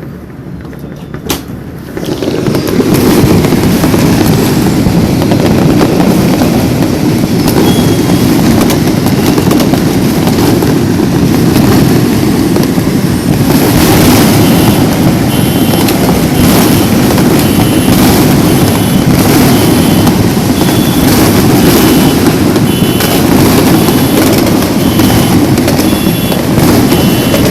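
Dense, unbroken barrage of New Year firecrackers and fireworks: a steady wall of close-packed bangs that gets much louder about two seconds in. From about halfway, a short high beeping tone repeats over it every second or so.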